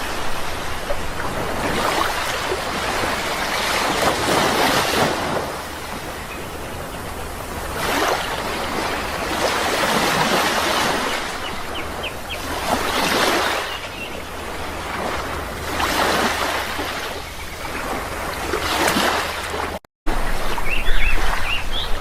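Sea waves surging and washing in, swelling and falling every two to three seconds, with a few faint bird chirps. The sound cuts out for a moment about two seconds before the end.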